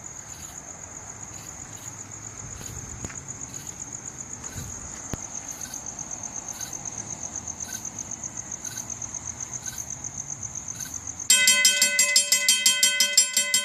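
Crickets trilling steadily. About eleven seconds in, a railroad grade-crossing warning bell starts ringing rapidly and loudly, signalling that a train is approaching.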